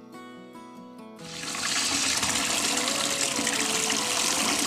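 Water pouring from a miniature clay pitcher into a small plastic bowl, a steady rush that starts about a second in, over light plucked background music.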